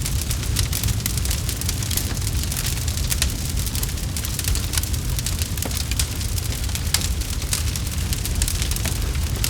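Campfire crackling: a dense, irregular run of sharp pops and snaps from burning wood over a steady low rumble of the flames.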